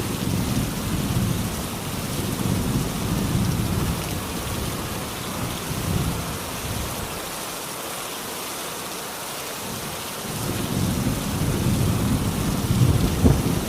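Steady rain falling, with low rolling thunder that rumbles for the first several seconds, fades, and builds again from about ten seconds in.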